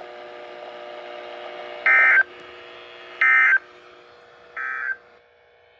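Weather radio sending the three short Emergency Alert System (SAME) end-of-message data bursts, buzzy digital screeches about 1.3 s apart, the third one softer. They mark the end of the blizzard warning broadcast, over a faint steady hum from the radio.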